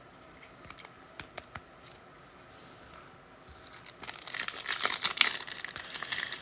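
A few light clicks and taps from cards being handled, then from about four seconds in the loud crinkling and tearing of a trading-card pack wrapper being ripped open.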